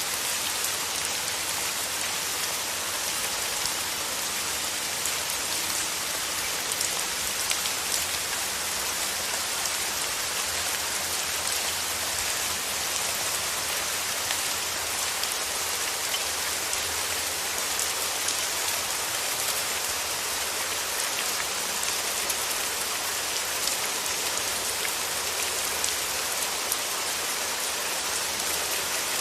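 Steady rain falling, an even hiss dotted with the ticks of single drops striking a surface.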